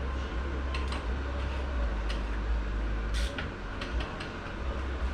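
Scattered light metallic clicks and taps as an automatic transmission's clutch drum is turned by hand to line up with its clutch plates and seat, over a steady low hum.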